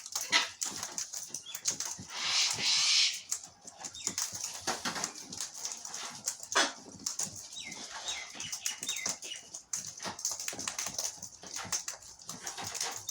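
Wild birds at scattered seed: wings fluttering and short falling chirps, over many small taps and rustles. A loud rush of rustling about two seconds in lasts roughly a second.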